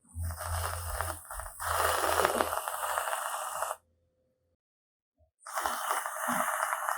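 Chocolate powder sachets being handled and emptied into a container: a dry rustling, scraping noise that stops about four seconds in and starts again near the end.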